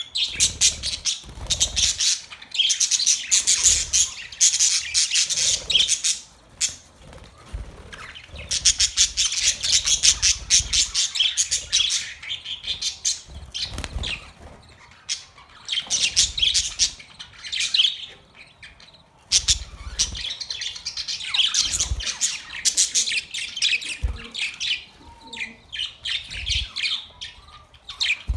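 Australian parrots chirping and squawking in bouts of fast, high chatter a few seconds long, with short lulls between.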